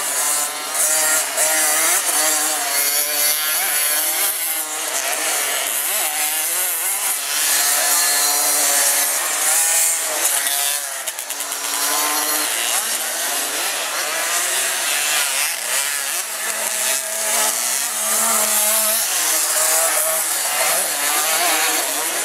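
Several 50 cc two-stroke motocross bikes racing, their high-pitched buzzing engines revving up and down and overlapping one another.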